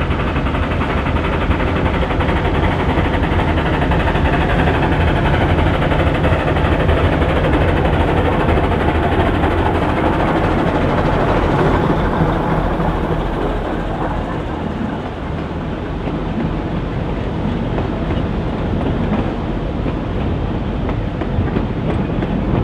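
Narrow-gauge steam train running steadily, a continuous rumble and clatter of the train on the track. It eases a little in level just past the middle.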